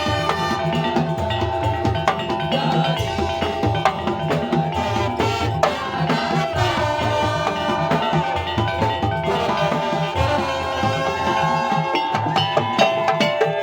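Madurese daul (tong-tong) music played by a percussion ensemble: a steady, driving drum rhythm with a sustained melody line held over it.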